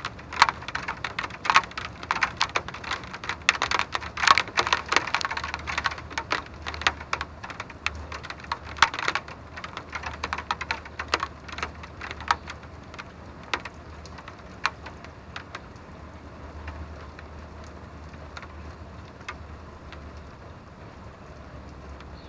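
Raindrops falling on a hard surface: many sharp drops tapping close together, thinning to scattered drops about halfway through, over a low steady hum.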